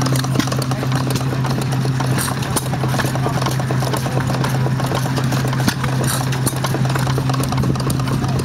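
1912 United Type F 1½ hp hit-and-miss stationary engine running while driving a Tangye water pump, a string of clacks and knocks from the engine and pump, over a steady low hum.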